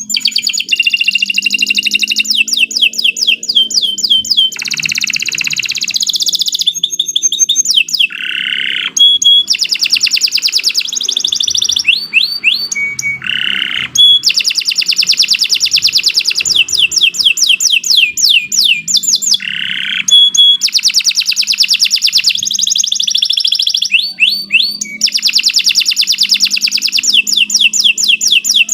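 Domestic canary singing a long, unbroken song of fast trills and rolls, switching every second or two between rapid repeated notes and short whistled glides.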